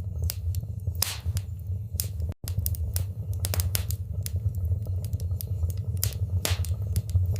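Wood fire in a fireplace crackling: irregular sharp pops and snaps over a steady low rumble of the flames. The sound drops out for an instant about two and a half seconds in.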